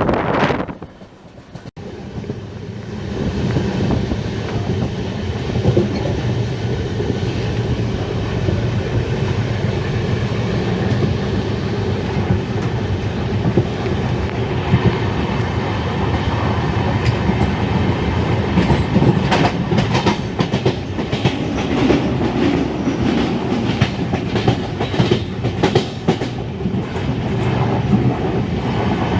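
Swaraj Express passenger train running on the rails, heard from on board: a steady rumble with wheels clicking over rail joints. The clicks come thicker in the second half. The sound drops away briefly about a second in and then picks up again.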